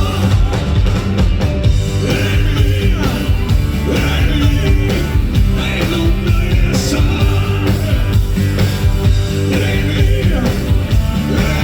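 A rock band playing live, with a singer over the band.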